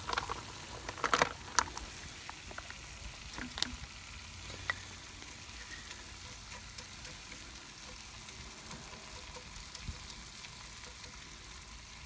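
Vegetables sizzling in a cast-iron Dutch oven as sauerkraut is tipped in and stirred with a wooden spoon. A few sharp knocks and scrapes in the first four seconds, then a steady sizzle.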